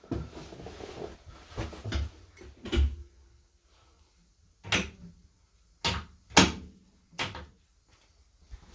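Irregular knocks and thuds inside a locomotive cab: a run of dull bumps in the first three seconds, then about five separate sharper bangs, the loudest a little over six seconds in.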